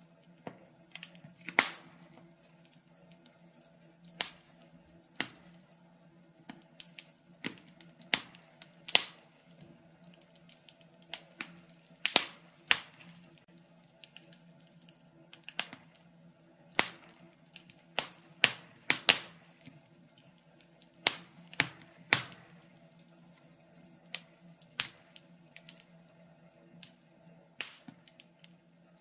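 Wood fire crackling in a fireplace: irregular sharp pops and snaps, often several close together, over a faint steady low hum.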